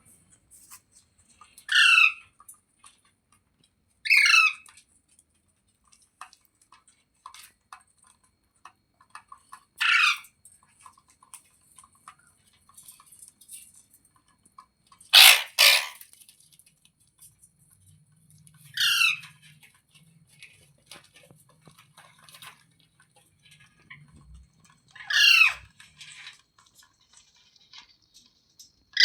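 Ringneck parakeet screeching six times, a few seconds apart, each harsh call falling in pitch; the call about halfway through is the longest and loudest.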